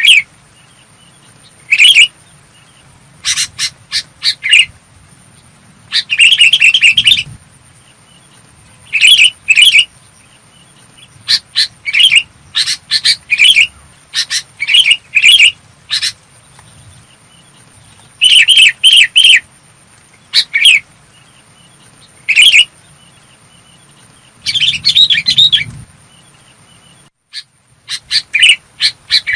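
Sooty-headed bulbul singing: short, clear, bubbly phrases of a few quick notes, repeated every second or two with brief pauses between.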